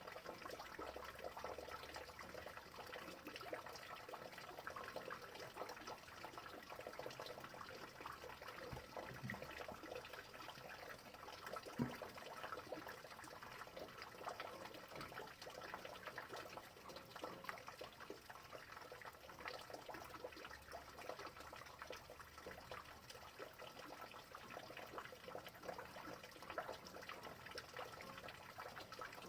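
Rain falling steadily and faintly, a dense spread of many small drop ticks, with one louder single knock about twelve seconds in.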